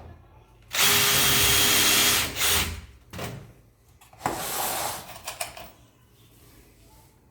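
Power drill running in three bursts: a steady one of about a second and a half, then a short one, then one of about a second a couple of seconds later.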